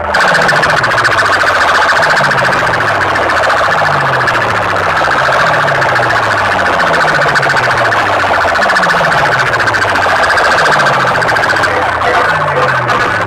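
A large DJ sound-box rig plays a loud siren-like electronic effect: a low tone sweeps down in pitch a little more than once a second, under a steady high wailing, fluttering tone.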